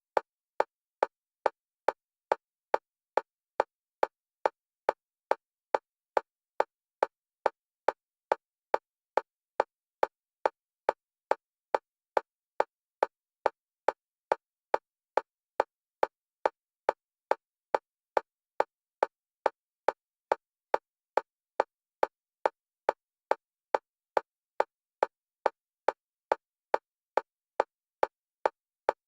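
Synthetic metronome clicks for EMDR bilateral stimulation, alternating between the left and right stereo channels. Short, evenly spaced clicks of one pitch at about two a second, each the same loudness, without a break.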